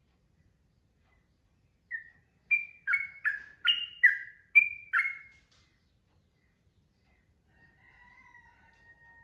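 Yellow-vented bulbul (trucukan) singing: after a pause, a quick bubbly phrase of about eight chirpy notes, followed near the end by faint drawn-out notes.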